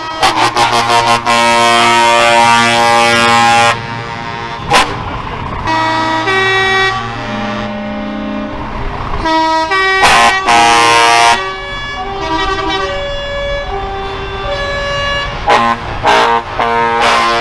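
Truck air horns blasting: one long blast at the start lasting a few seconds, another about ten seconds in, and short toots between, over steady music.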